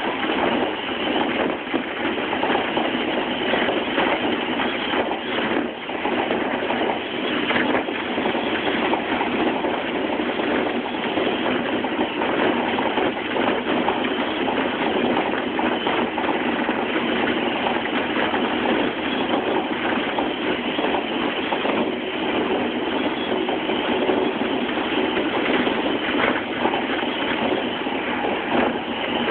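Steady running noise of a Tokaido Line electric commuter train moving along the track, heard from inside the passenger car.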